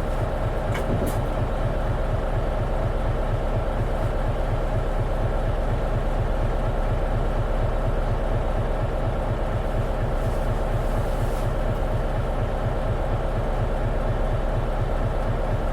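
Interior sound of an Isuzu Erga city bus's diesel engine running steadily, a low regular throbbing pulse with cabin rumble. A couple of short clicks come about a second in.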